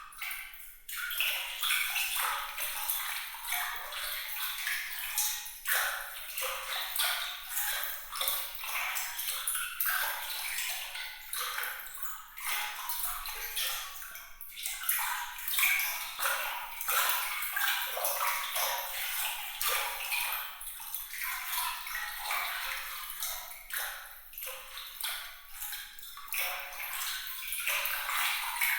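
Glittering water sound: water trickling and splashing in a continuous, fluttering stream of small bright droplet plinks, high and light with no low rumble.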